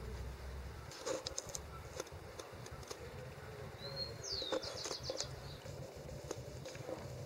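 A small bird calls once about four seconds in: a short high whistle, then a quick falling note. Scattered clicks and rustles and a low rumble sit beneath it.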